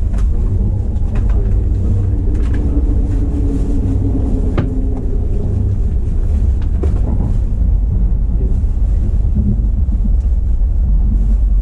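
Running noise of a Kintetsu 80000 series Hinotori electric train heard from inside the cab in a tunnel: a steady low rumble with a few sharp clicks.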